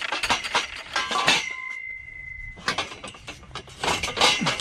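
Scrap metal being handled, with repeated clanks and rattles of metal parts knocking together. In the middle, a short quieter pause holds a steady high ringing tone.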